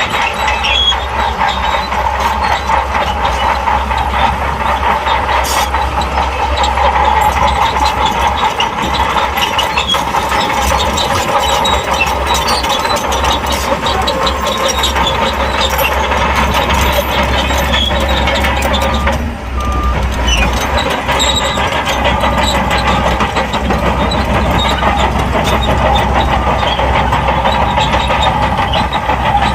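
Crawler bulldozer working: the diesel engine runs steadily under load and the steel tracks clatter continuously, with a brief dip in level about two-thirds of the way through.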